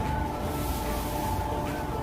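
Automatic car wash machinery running, a steady low rumble with a steady high whine over it.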